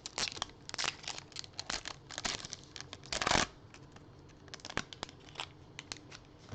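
A trading-card pack's wrapper being handled and torn open, with crinkling and crackling throughout and one longer, louder rip about three seconds in.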